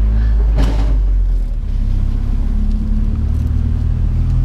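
Pickup truck driving along: a steady, loud low engine and road rumble, with one brief knock about half a second in.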